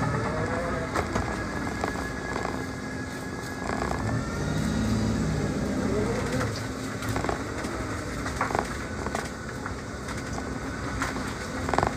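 Car engine heard from inside the cabin while driving a manual car, a steady low hum whose note rises at the start and again about six seconds in as it is accelerated, with scattered small knocks and rattles from the car.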